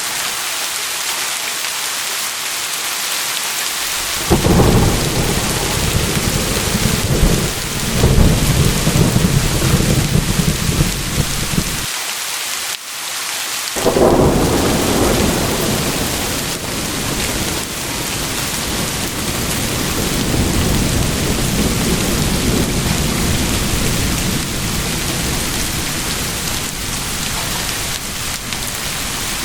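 Steady rain with rolling thunder: a long low rumble breaks in about four seconds in and lasts around eight seconds, then a second rumble starts about halfway through and slowly dies away under the rain.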